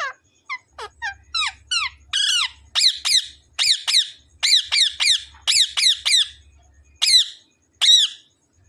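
Pet parrot giving a long run of short, sharp calls, each a quick falling squawk, about two a second. The first few calls are quieter; the rest are loud and even, stopping just before the end.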